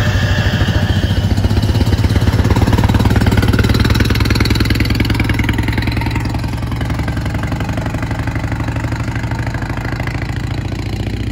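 Manta Montage kit car's engine running as the car drives away down the street. The sound is loudest in the first few seconds and fades steadily as the car recedes.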